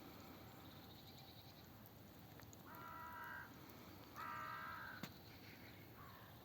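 Two drawn-out animal calls, each under a second long and about a second apart, with a fainter short call near the end, over a very quiet background.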